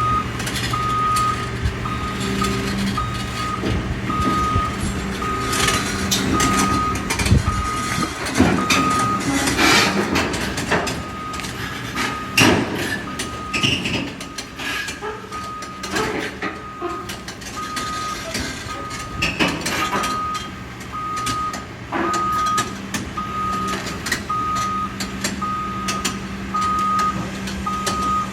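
A truck's reversing alarm beeping steadily, a little more than once a second, over the truck's engine running, with scattered knocks and clatters.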